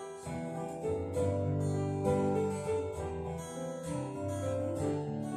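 Instrumental break in a live song: strummed acoustic guitar chords about twice a second, with low notes held beneath them.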